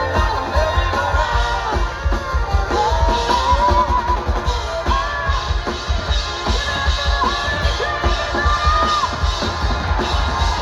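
A rock song with a singer, guitar and drums.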